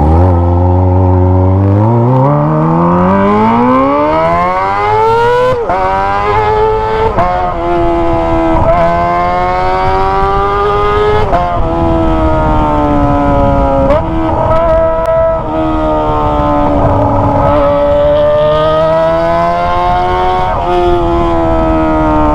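Kawasaki ZX25R's 250 cc inline-four with a Toce aftermarket exhaust, pulling up from low revs with a steadily rising note. It then holds at high revs, with several sudden short breaks and dips in the note.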